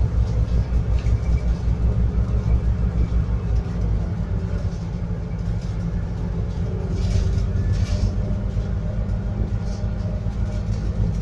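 Scania N280UD biogas double-decker bus heard from on board: the engine's low rumble and the running noise of the bus on the move. The engine's pulsing throb eases into a smoother drone about four seconds in, with brief rattles around the middle.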